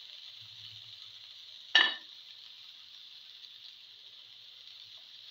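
Tomato, winter melon and cumin seeds sizzling in oil in a frying pan, a steady high hiss, with one sharp click a little under two seconds in.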